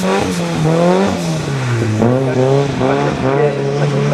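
Racing car's engine at full throttle. Its pitch climbs and drops back about once a second as it shifts up through the gears.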